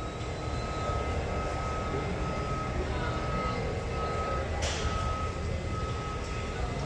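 A vehicle's reversing alarm beeping on one high pitch over the low, steady rumble of a large hall, with a single sharp knock about four and a half seconds in.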